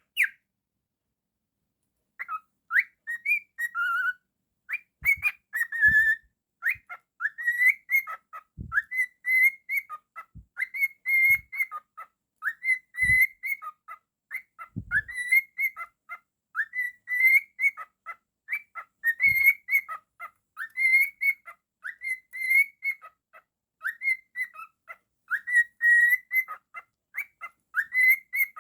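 Cockatiel whistling: after about two seconds of quiet, a long string of short, rising, chirpy whistled notes, roughly two a second. A few dull low thumps come in between.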